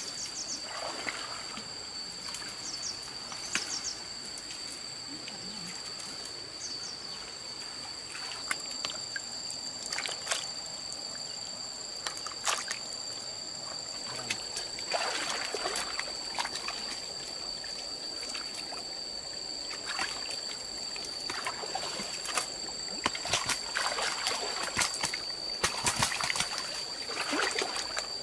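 Water sloshing, trickling and splashing in uneven bursts, busier in the second half, over a steady high whine.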